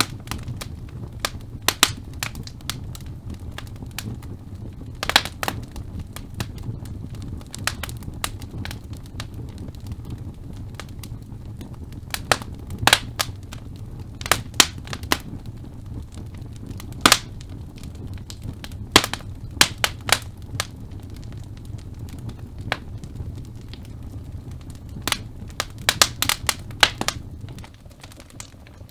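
Wood fire burning in a fireplace: irregular sharp crackles and pops from the burning logs over a steady low rumble of the flames, which drops off near the end.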